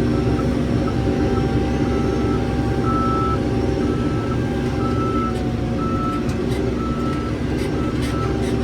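A heavy vehicle's reversing alarm beeping about once a second over its engine running steadily.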